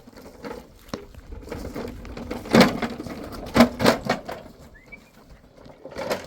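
Irregular knocks and thuds, the loudest about two and a half and three and a half seconds in, with fainter clatter between.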